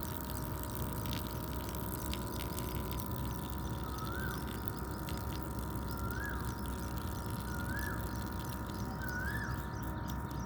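A bird calling over and over, about every one and a half to two seconds, each call a short whistle that rises and then drops, over a steady low background noise.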